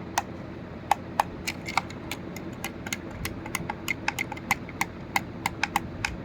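Irregular sharp clicks, a few per second, from the buttons and plastic body of a small portable speaker being pressed and tapped while it is handled.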